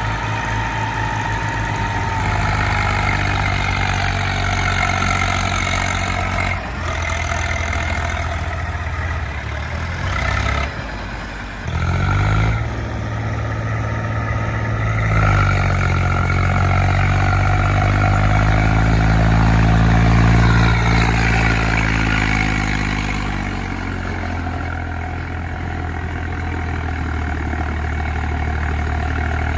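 Heavy diesel tractor engine labouring and revving under load, its pitch rising and falling repeatedly, with a few abrupt breaks where the sound changes suddenly.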